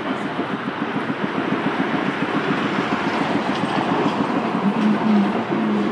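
New Orleans St. Charles line streetcar running along its track, with steady rattling and clatter of wheels on rail. A low hum joins in near the end.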